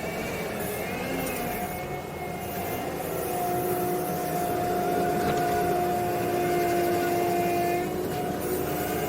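Kubota SVL95-2 compact track loader running, its diesel engine holding a steady droning tone; it grows louder about three seconds in and eases back a little near the end.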